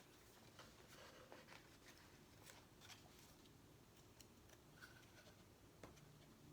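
Faint, scattered taps, clicks and light crinkles of stickers and sticker sheets being handled, peeled and pressed onto a box.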